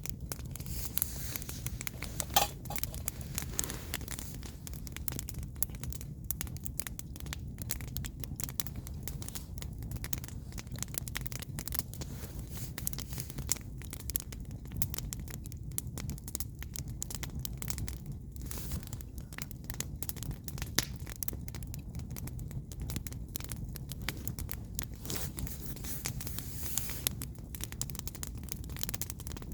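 Firewood burning in a campfire, crackling with irregular sharp snaps over a steady low rumble.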